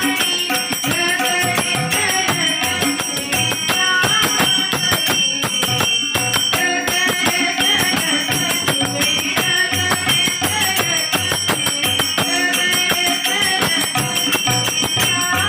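Bhajan: young girls singing a devotional melody over rapid, dense hand percussion.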